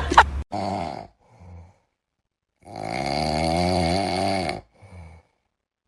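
An animal snoring. A short snore comes about half a second in, then a long wavering snore lasts about two seconds in the middle, with faint breaths between them.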